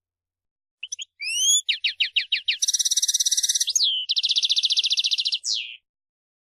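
European goldfinch singing one phrase: a couple of short chirps, a few rising whistled notes, then a quick run of down-swept notes, two fast buzzy trills broken by a downward slur, and a final falling note.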